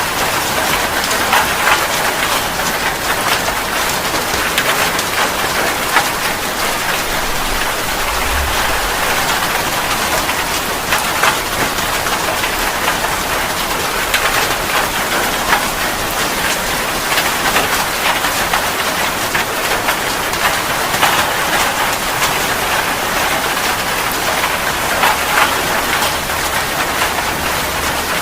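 Heavy rain falling steadily, with many separate drops hitting a surface throughout.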